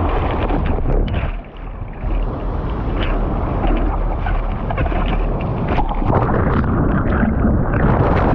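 Choppy sea water splashing and rushing close to the microphone, with wind buffeting it.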